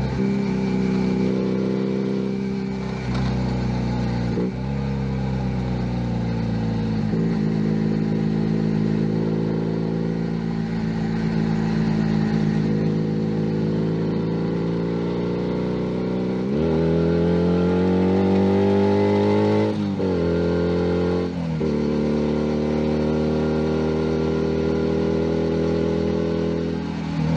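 A Junak M11 Cafe 125cc motorcycle engine running under way, with brief dips in the note as it shifts gear several times. About two-thirds through the engine note climbs as the bike accelerates, then falls sharply with gear changes and settles into a steady cruise.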